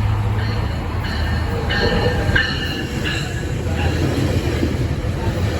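GO Transit commuter train running with a steady low rumble, with several short high-pitched squeals coming and going in the first four seconds.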